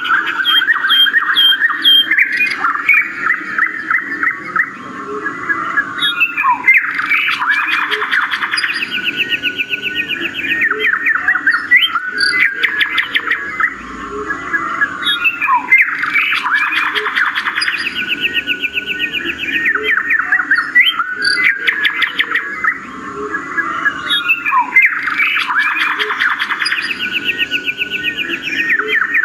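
Birds chirping and trilling, with rapid runs of chirps; the same sequence of calls repeats about every nine seconds.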